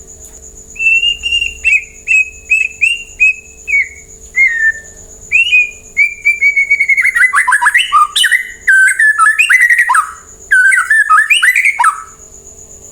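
White-rumped shama (murai batu) singing: a run of repeated slurred whistles, then faster, more varied phrases. It stops shortly before the end.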